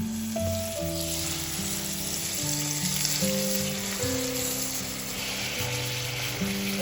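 Food frying in a pan, a steady sizzle, over background music with sustained notes.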